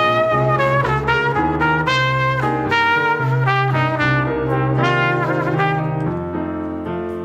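A live Latin band playing a boogaloo, with brass horns carrying the melody over a steady bass line and percussion.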